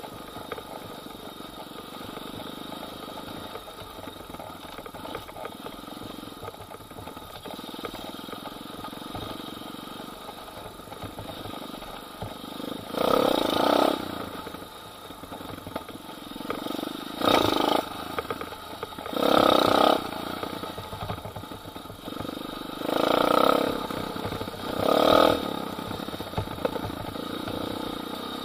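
Pit bike engine running under way, with five short bursts of throttle in the second half where the engine revs up for about a second each.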